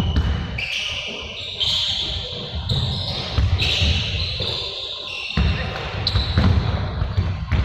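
Basketballs bouncing on an indoor court floor, with repeated low thuds and high squeaks over them.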